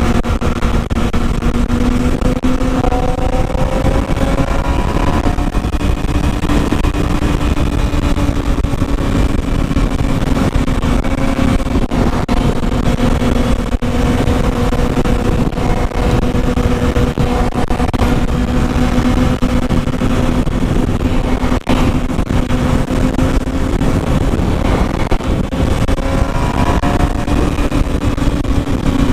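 Motorcycle engine running at a steady cruise under heavy wind rumble, its pitch drifting slightly and rising a little about two seconds in and again near the end.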